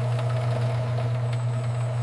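Steady low mechanical hum of factory machinery running without change, with a few fainter steady tones above it.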